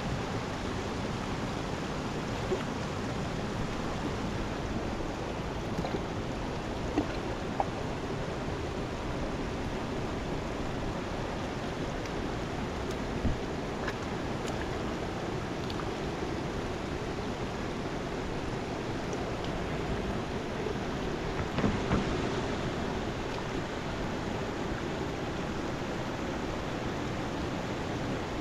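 Mountain river water rushing steadily, with a few brief knocks or clicks on top.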